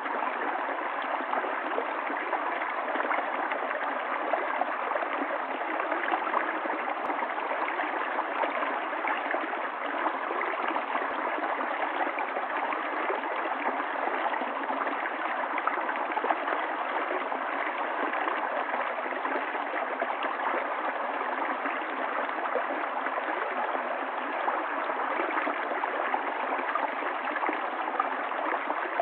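Running water of a stream, flowing steadily without let-up.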